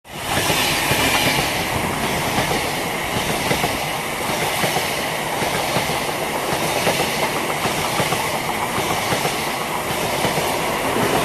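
A locomotive-hauled electric passenger train, Class 90 90001 propelling its coaches from the rear, passing at speed close by: a steady, loud rush of wheels on rail with a regular pulse about once a second.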